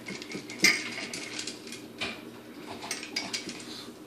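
Small dog eating from an upside-down slow feeder bowl: irregular clicks and clinks of food and muzzle against the bowl, one louder knock about half a second in.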